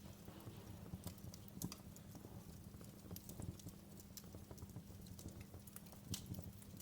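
Wood fire crackling in a fireplace: irregular sharp pops and snaps over a low steady rumble, with the strongest snaps about a second and a half in and again near the end.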